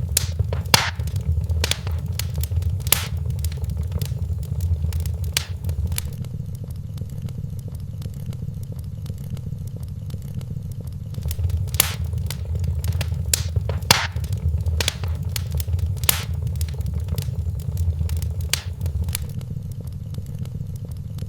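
Wood fire crackling in a fireplace: irregular sharp pops and snaps over a steady low rumble, busier near the start and again about halfway through.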